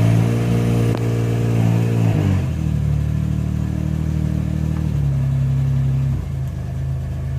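1985 Suzuki Mighty Boy's F8B three-cylinder engine running just after a cold start with a little choke, on a freshly fitted timing belt. It holds a fast idle at first, then the idle speed drops about two and a half seconds in and settles lower in two more steps, running smoothly.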